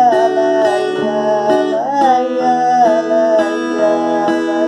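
A woman singing a drawn-out "ai" refrain over her own strummed acoustic guitar, the sung notes wavering and sliding between pitches.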